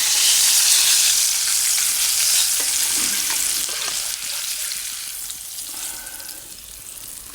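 Fish frying in hot oil in a pan: a loud sizzle that gradually dies down.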